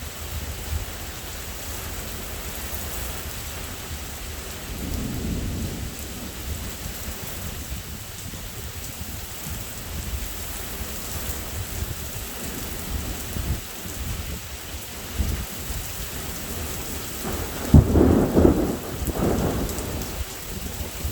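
Steady rain with thunder: a low rumble about a quarter of the way in, then a loud thunderclap near the end that rolls on for about two seconds.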